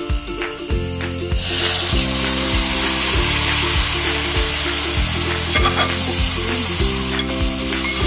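Cooked mutton pieces going into hot oil and fried onion masala in a metal pan: a loud sizzle starts about a second and a half in and keeps on. Background music with a steady beat plays underneath.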